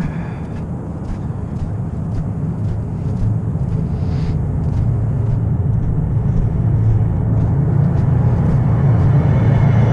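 Low rumble of an approaching light-rail train, growing steadily louder, with faint regular clicks over it.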